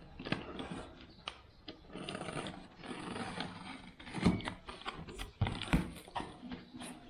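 Packaging being handled and opened: crackly rustling and scratchy tearing, with a few sharp knocks about two-thirds of the way in.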